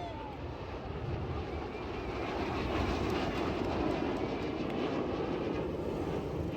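Jet aircraft passing over at an air show: a steady rushing roar of engine noise that swells a little in the middle.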